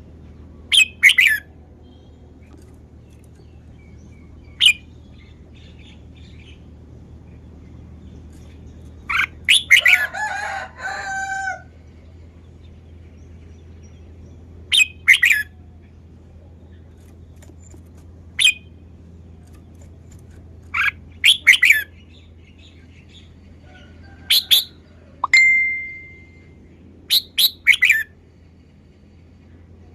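Red-whiskered bulbul singing short, sharp whistled phrases every few seconds, with one longer, rougher phrase about ten seconds in. A steady low hum runs underneath.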